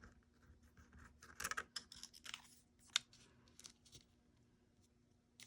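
Faint rustling of paper pieces being handled and shifted on a craft desk, with a few short rustles and a single sharp click about three seconds in.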